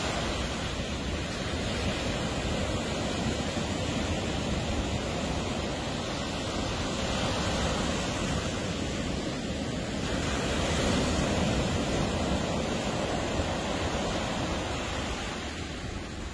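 Ocean surf washing ashore in a continuous rushing wash, swelling louder about ten seconds in as a wave breaks, with a low wind rumble on the microphone.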